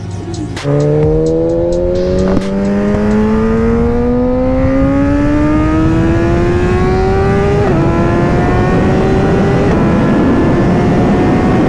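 BMW S1000RR's inline-four engine accelerating hard: its note climbs steadily for about seven seconds, drops with an upshift, then climbs again and shifts once more.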